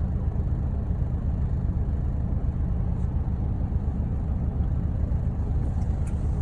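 Steady low rumble of a vehicle's engine and road noise, unchanging throughout.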